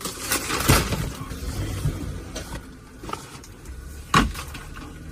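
Gear and supplies being handled and set down: a cluster of knocks and rattles near the start and one sharp knock about four seconds in.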